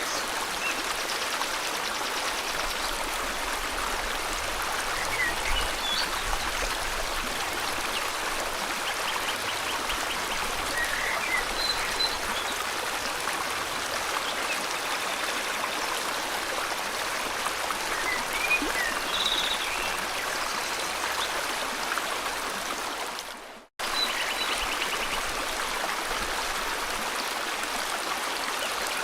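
Steady rushing of river water with scattered short bird chirps and trills over it. About 23 seconds in, the whole sound fades out to silence for a moment and then comes straight back.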